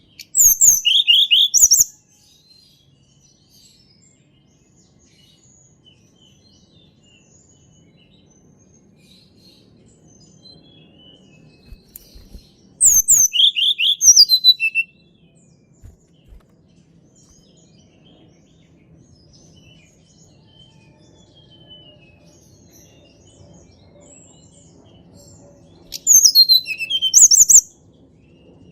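A tledekan gunung songbird singing three short, loud, high-pitched phrases of rapid falling notes, each about one and a half seconds long and spaced roughly twelve seconds apart.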